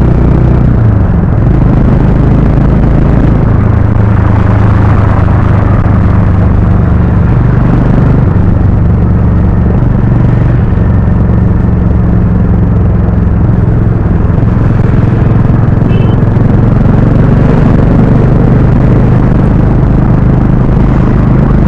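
Harley-Davidson X440's single-cylinder engine and exhaust running steadily at an even, nearly constant engine speed while riding.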